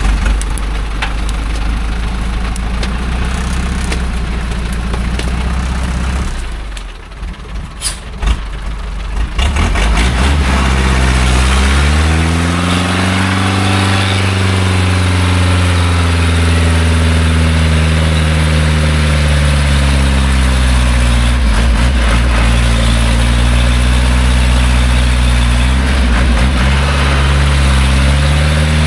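Loaded logging truck's engine running, then dropping away for a few seconds with a couple of sharp clicks. It comes back about ten seconds in, revving up to a high, sustained pitch under heavy load as the truck strains up a muddy slope, with brief dips in revs.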